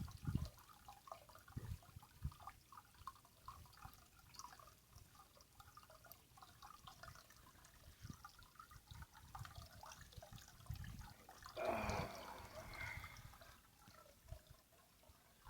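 Faint water sounds: small drips, ticks and gurgles with low thumps, and a louder rush of water lasting under a second about twelve seconds in.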